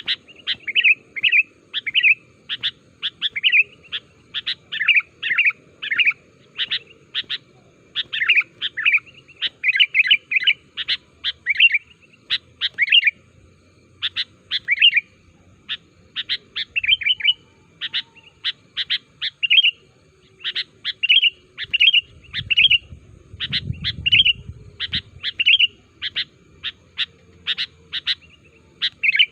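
Sooty-headed bulbul (kutilang) calling without pause: a fast run of short, bright chirps, several a second, in phrases with brief gaps.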